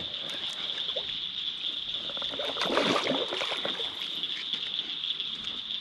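A short burst of water splashing about two and a half seconds in, over a steady high buzz of night insects.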